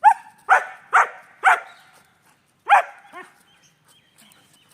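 German Shepherd barking five times: four loud barks about half a second apart, then one more after a short pause.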